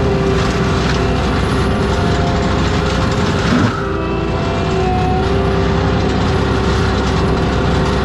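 ASV RT-120F forestry track loader running its mulcher head: a loud, steady engine and drum drone, with a brief dip and shift in pitch about three and a half seconds in as the load changes.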